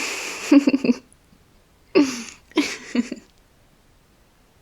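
A woman laughing softly: a breathy burst of about a second, then two short giggles with falling pitch.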